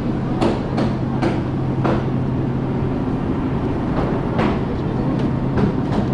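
Busy seafood market background: a steady low hum under irregular knocks and clatter.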